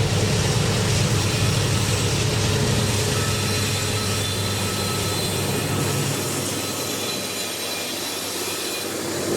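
Freight train passing, with a steady low diesel-locomotive rumble under a wide rolling noise. The low rumble eases for a few seconds near the end and then comes back.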